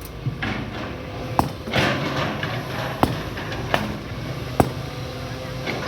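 Excavator engine running steadily, with sharp knocks at uneven spacing, roughly once a second.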